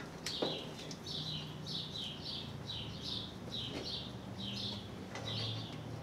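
A small bird chirping over and over, about two short high chirps a second, over a low steady hum, with a single knock about half a second in.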